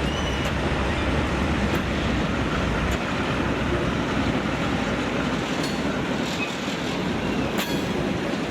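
Freight train rolling past: a steady rumble of wheels on the rail, with a few sharp clicks along the way.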